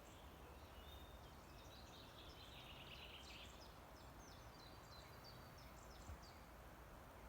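Faint bird song: a string of short, high chirps with a brief trill, over a low, steady outdoor rumble.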